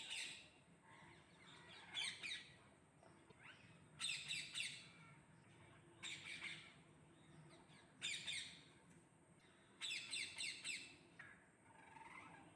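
Parrots squawking: short bursts of harsh, rapid calls about every two seconds.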